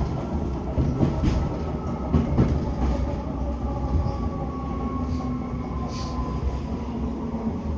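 Moscow Metro 81-740/741 Rusich train running, heard from inside the car: steady wheel and rail rumble with a few knocks from the track. A faint whine slides gradually lower in pitch.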